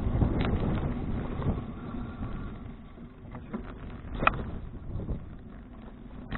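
Wind buffeting a bicycle-mounted action camera's microphone, with low rumbling road noise that eases off about halfway through. A few short sharp clicks stand out, the loudest about four seconds in.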